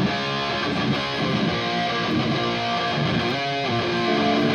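Hardcore band playing live, led by electric guitar strumming held chords.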